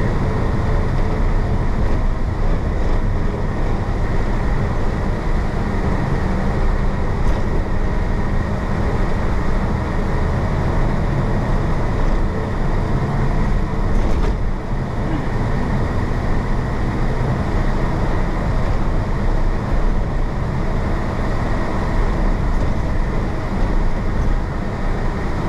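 1966 Isuzu BXD30 bonnet bus's DA640 inline-six diesel running steadily under way, heard from inside the bus, with a brief drop in level about halfway through.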